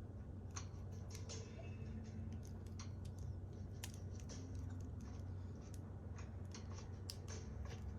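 Irregular sharp clicks and taps of small LEGO plastic pieces being handled, over a steady low hum.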